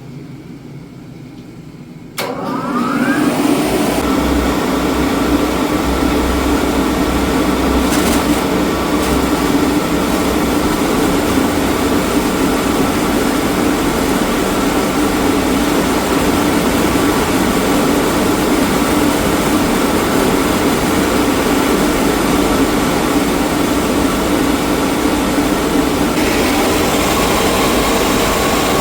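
Wet/dry shop vacuum switched on about two seconds in, its motor whine rising as it spins up, then running steadily to suck the water out of a leaking boiler. The hiss turns brighter near the end.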